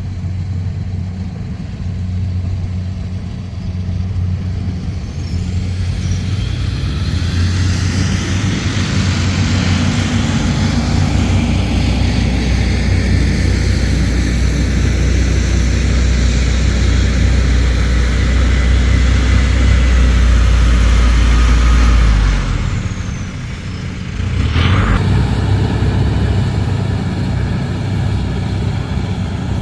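Rice combine harvester's diesel engine running steadily under load, growing louder over the first twenty seconds, then dropping away suddenly about 22 seconds in before picking up again.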